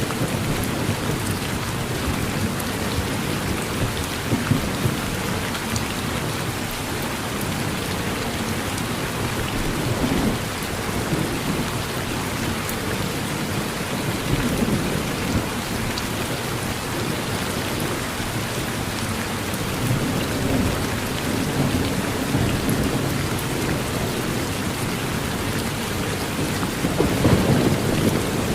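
Heavy steady rain falling on a porch, with low rumbles of thunder swelling now and then, the strongest near the end.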